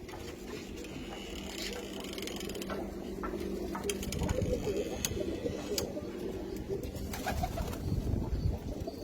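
Domestic pigeons cooing in a loft, low warbling coos repeating throughout, with a few sharp clicks among them.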